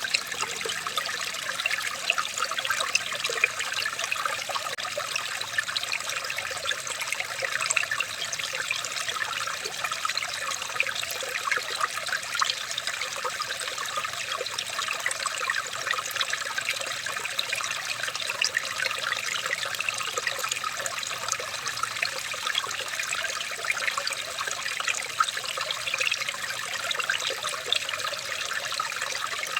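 Running water trickling and bubbling steadily, a dense patter of small splashes with no pause or change.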